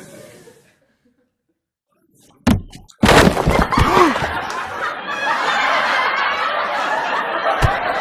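Laughter from many people bursts in loudly and keeps going, with voices rising and falling. Just before it comes a single sharp hit, after a moment of dead silence.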